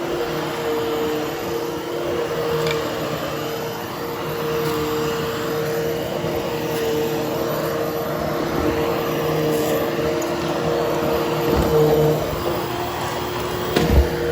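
Hoover Hushtone upright vacuum running over carpet with a steady motor hum. About twelve seconds in, its pitch drops a little, and a couple of knocks follow near the end.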